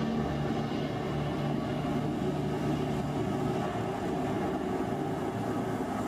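Jet airliner engines running with a steady rumble and hum.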